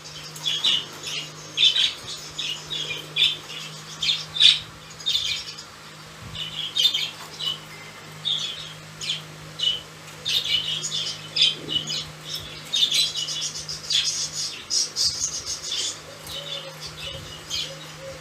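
Budgerigars chattering in their cage: a steady stream of short, quick chirps and squawks.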